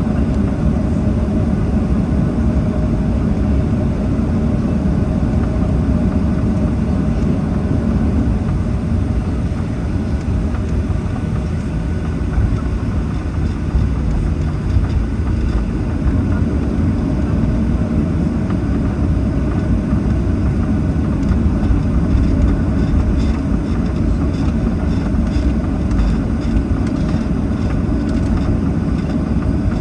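Cabin noise of a Boeing 737-800 taxiing: a steady low rumble from its CFM56 jet engines at taxi power and the wheels rolling on the taxiway, with a faint steady hum above it.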